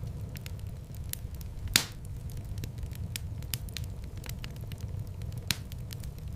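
Wood fire crackling in a fireplace: a steady low rumble of flames with many small sharp snaps, and two louder pops, the loudest a little under two seconds in and another near the end.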